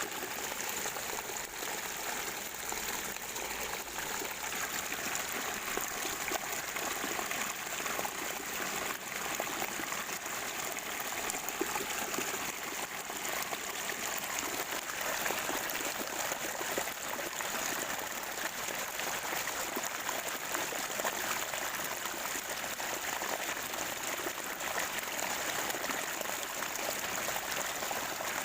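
Spring water gurgling and trickling steadily.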